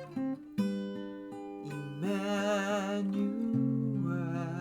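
Acoustic guitar accompanying a slow worship chorus. A voice holds long, wavering notes at about two seconds in and again near the end.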